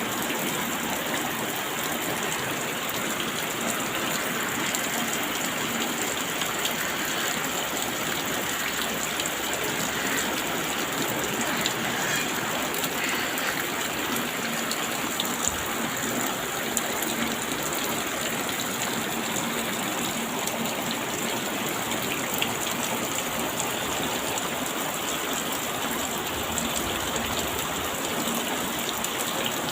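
Steady rain, a dense even hiss with many small drop ticks throughout.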